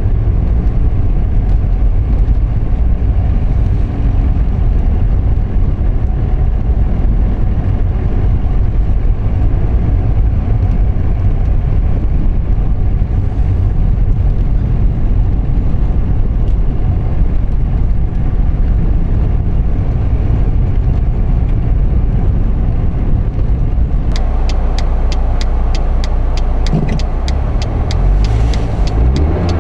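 Steady low rumble of a car driving, road and tyre noise heard from inside the vehicle. About three-quarters of the way through, a rapid, regular ticking starts, about three or four ticks a second.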